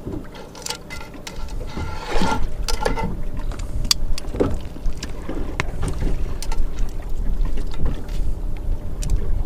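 Lobster pieces being put into a pan of melted garlic butter: scattered knocks and clinks of shell and utensil against the pan, over a steady low rumble that grows louder in the second half.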